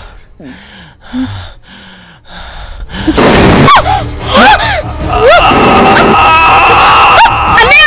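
Dramatic film soundtrack: a few short gasping breaths, then from about three seconds in a loud swell of eerie music with swooping rising-and-falling tones.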